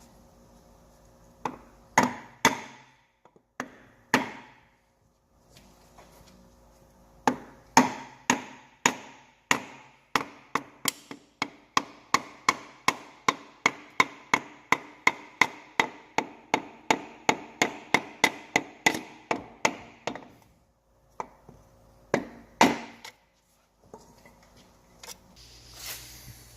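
A hammer tapping a new piston down into its cylinder sleeve in a Perkins diesel engine. A few separate taps come first, then a steady run of about two to three taps a second, then two more taps near the end. Each tap rings briefly.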